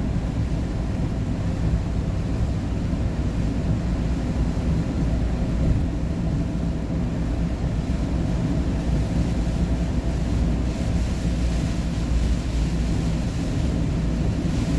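Steady low engine and road noise inside a moving vehicle's cabin, with a constant low hum.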